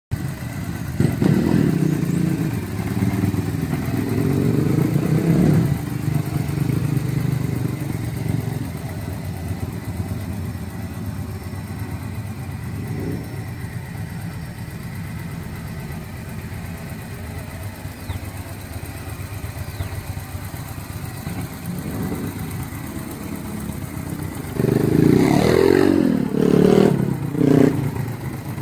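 2011 Victory Vision's V-twin engine running at idle, revved several times in the first six seconds and blipped three times in quick succession near the end.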